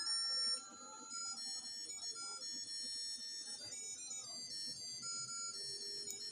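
Simple electronic melody of high, beeping tones stepping from note to note, like a cheap music chip or ringtone tune.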